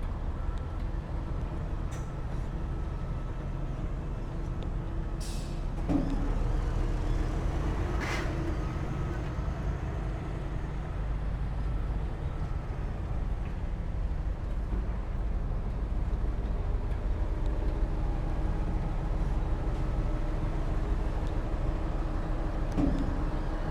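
Heavy diesel earthmoving machinery, bulldozer and dump truck, running steadily with a deep engine rumble. A short air hiss about five seconds in and a brief sharp clank about eight seconds in.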